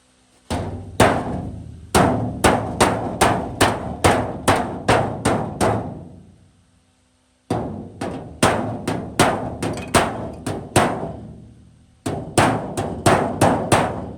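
Hammer blows on the truck cab's sheet metal, in three runs of quick strikes about two to three a second, each blow ringing briefly.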